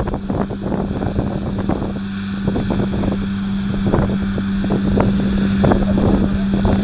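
New Holland T7.315's 6.7-litre six-cylinder diesel tractor working with a Kuhn triple disc mower conditioner: a steady hum over low rumble, with wind buffeting the microphone.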